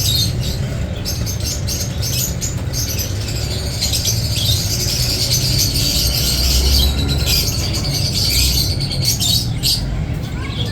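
Many caged birds chirping and squawking together in a dense, continuous chatter, over a steady low rumble.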